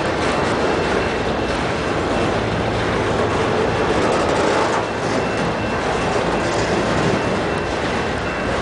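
Enclosed autorack freight cars rolling past close by: a steady noise of steel wheels running on the rails.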